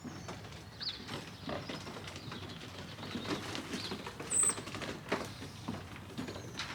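Racing pigeons moving about in a loft: scattered light pattering and knocks from feet and wings, with a few faint high chirps. A short sharp high squeak about four and a half seconds in is the loudest sound.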